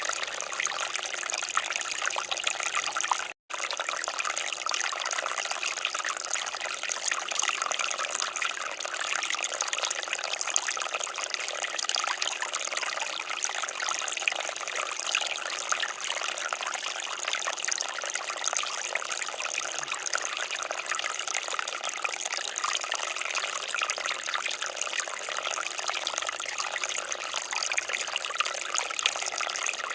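Water fountain splashing and trickling in a steady, even rush, with a split-second total dropout about three seconds in.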